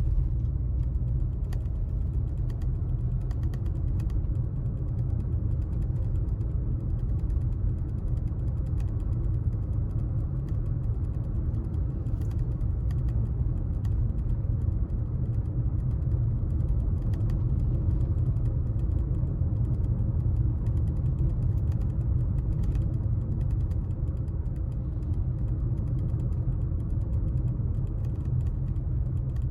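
A car driving on town streets: a steady low road and engine rumble, with faint scattered clicks and creaks.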